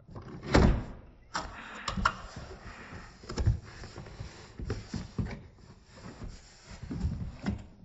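Cardboard and plastic packaging of a die-cast model airliner being handled: a string of knocks and clicks over scraping and rustling, with the loudest thump about half a second in. The audio is slowed to 0.4 speed, so every sound is deep and drawn out.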